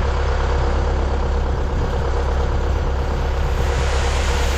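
Farm tractor's engine running steadily at a constant speed, a deep even hum with a held tone above it.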